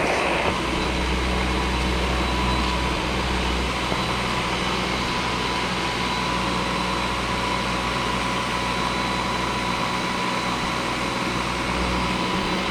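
Steady mechanical drone with a strong low hum and a thin, steady high whine.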